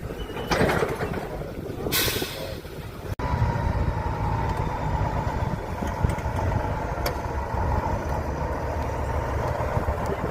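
Off-road trial truck engine running, with two short bursts of compressed-air hiss in the first couple of seconds. After an abrupt cut the engine runs steadily under load with a constant whine over its rumble.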